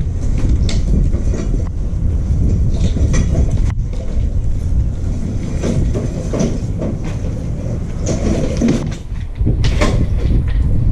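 Stump grinder powered by a 13 HP Honda engine, running steadily under load as its cutter wheel grinds into a stump, with irregular cracks and knocks over the engine's low drone.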